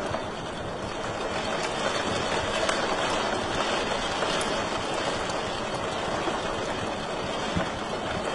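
Wood fire crackling in a fireplace: a steady hiss and rumble with scattered small pops and snaps.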